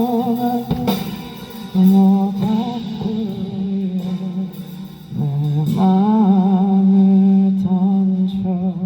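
A man singing wordless held notes with vibrato in a live song's closing passage, in long phrases with short breaks about two and five seconds in.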